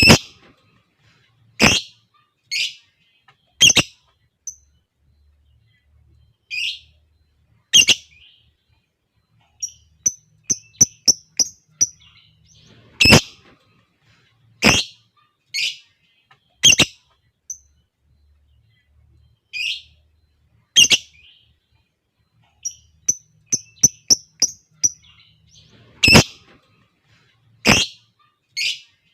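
Lovebirds calling with short, sharp chirps scattered irregularly, with two quick runs of clicking, ticking notes.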